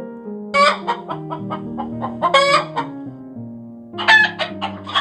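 Domestic hen clucking: three louder, drawn-out squawking calls with short quick clucks in between, over soft background music.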